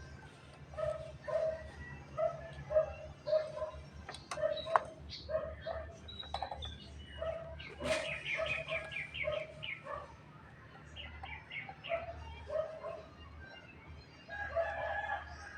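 Chickens clucking over and over, about two short calls a second, with a quick run of higher chirps about eight seconds in and a couple of sharp clicks about four seconds in.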